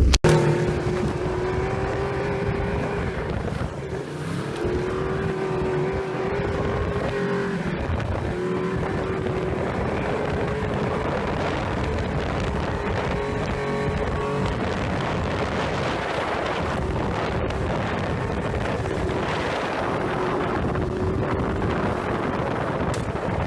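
Snowmobile engine running at speed, a steady high engine note that rises and falls slightly, with wind noise.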